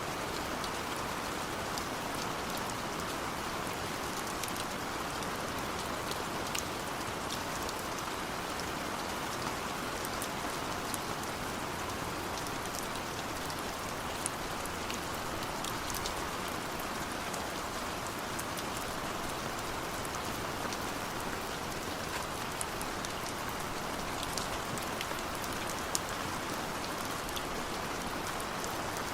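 Steady heavy rain falling, with scattered drop ticks.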